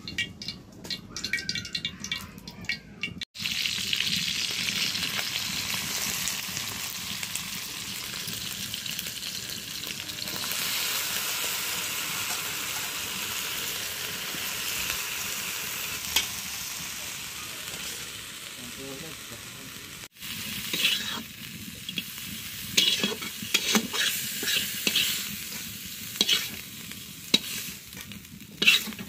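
Masala-coated prawns sizzling as they deep-fry in hot oil in a black iron kadai, a steady hiss through most of the stretch. In the last part the sizzle is quieter, with sharp metal clinks of utensils against the pan and bowls.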